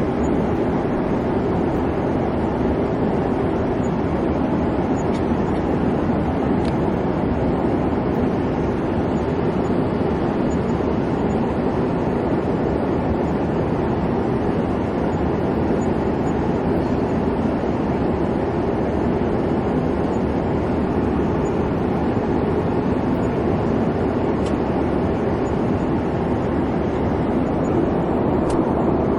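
Airliner cabin noise in cruise: a steady, even rumble of the engines and airflow, strongest in the low range.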